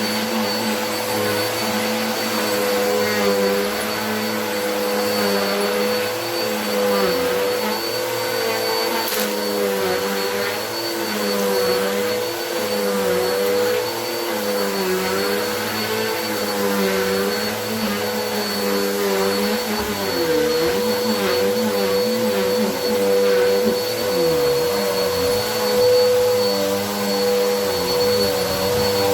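Vacuum cleaner running steadily with its motor whine, the pitch of the airflow wavering up and down as it is pushed back and forth over the floor.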